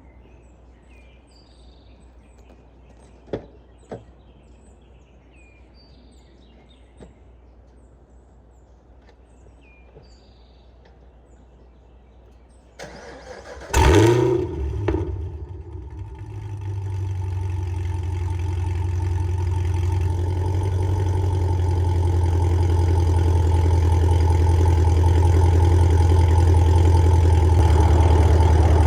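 Chevrolet Camaro ZL1's supercharged 6.2-litre V8 started up a little past halfway: one loud flare as it catches, then a steady idle through the exhaust that grows gradually louder. Before that there is a quiet stretch with a few faint clicks.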